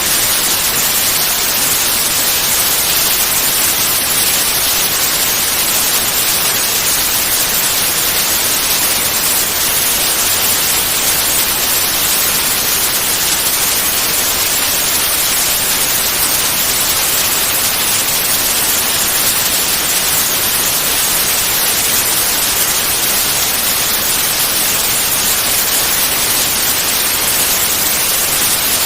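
Steady, unchanging white noise: an even hiss, strongest in the high frequencies, made as a sleep aid for babies.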